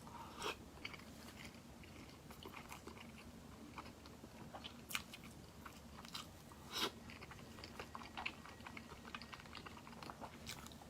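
Faint close-up eating sounds: a person biting and chewing a braised egg, with soft mouth clicks and a few louder smacks.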